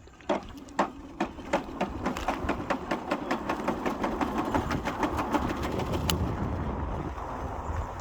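Himiway Cruiser e-bike's hub motor under way, clicking and knocking over a rising rumble, the clicks coming faster and faster as the bike picks up speed. The noisy motor sounds like it's about to fall apart; it has cut out before with an error 24 code.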